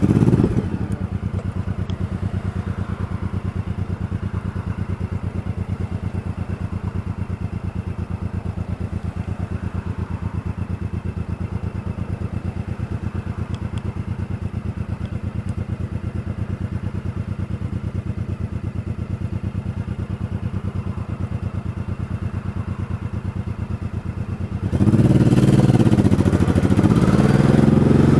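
Motorcycle engine idling with a steady, even pulse, then becoming much louder near the end as it is revved and pulls away.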